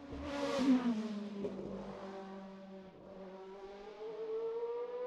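Race car engine on a hill climb. Its revs drop after a short burst of noise about half a second in, then rise steadily as it accelerates.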